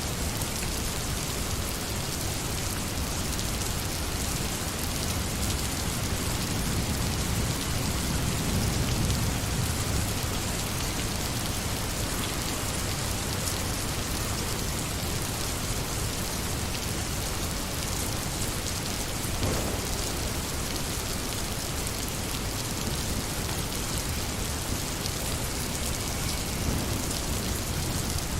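Steady rain falling, a dense even hiss, with a low rumble swelling briefly about seven to ten seconds in.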